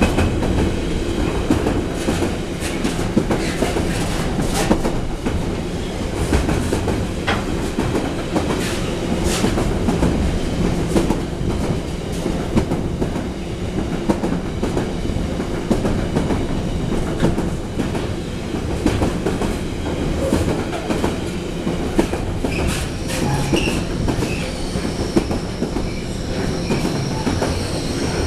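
Container freight train's wagons rolling past close by: a steady heavy rumble with wheels clacking over rail joints. A thin, steady high squeal joins near the end.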